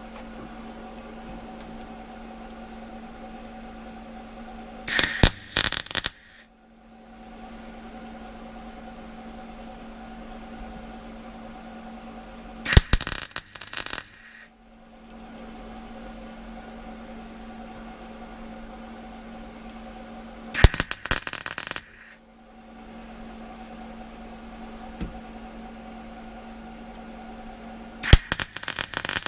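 MIG welder laying short stitch welds on a door repair section, one blob at a time: four crackling bursts of about a second each, roughly eight seconds apart. A steady hum runs between them.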